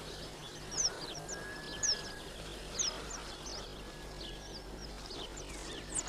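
Small songbirds calling: short, high chirps that sweep downward, a few each second at uneven spacing, with an occasional thin drawn-out whistle beneath them.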